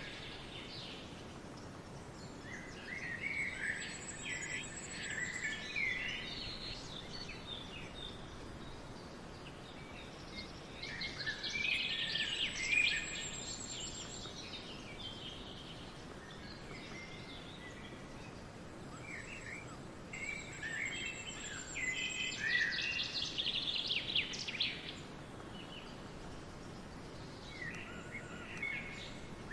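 Forest songbirds singing in three bouts of quick chirps and trills, a few seconds each, over a steady background hiss.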